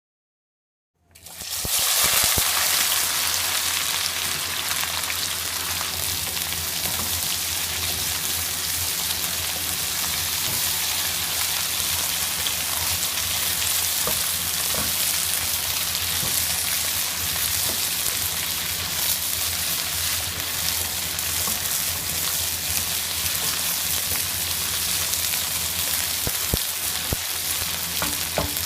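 Oil sizzling steadily as food fries in a pan, starting suddenly about a second in, with scattered small clicks and a low hum underneath.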